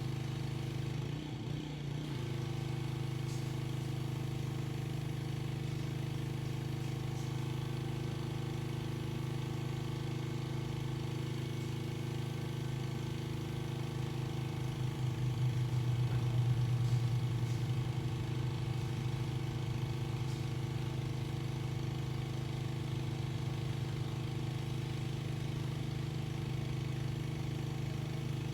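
Pressure washer's petrol engine running steadily, with a hiss above it; it grows a little louder for a few seconds midway, then settles back.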